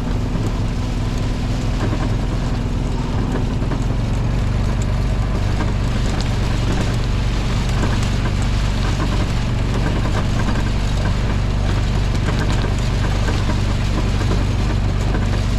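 Vehicle engine running steadily at a low, even pitch while being driven, under a constant rushing noise.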